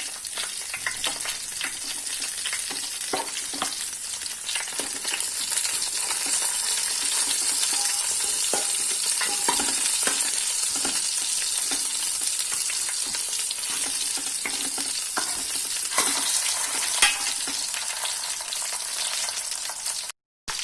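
Chicken pieces frying in a mixture of ghee and oil in a wide pan: a steady sizzle with scattered clicks and taps. The sound breaks off for a moment near the end.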